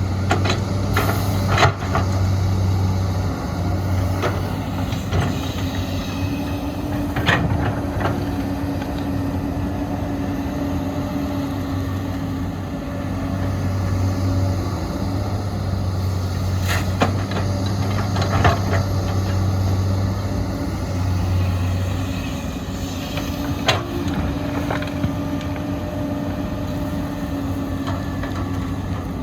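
Heavy diesel engines of an excavator and dump trucks running steadily, the engine note swelling and easing as the machine works, with sharp clanks every few seconds from the bucket and truck bed.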